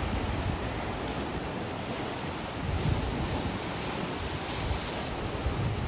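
Ocean surf washing on a beach, a steady rushing hiss with a brighter surge about four and a half seconds in, and wind buffeting the microphone with low rumbles.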